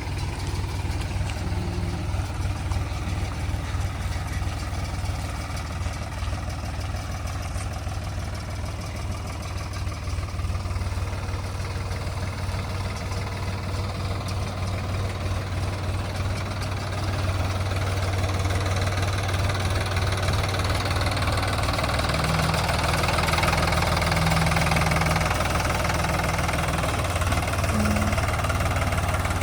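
Diesel engine of a JCB 3DX backhoe loader running steadily as it digs and loads mud, getting louder about halfway through.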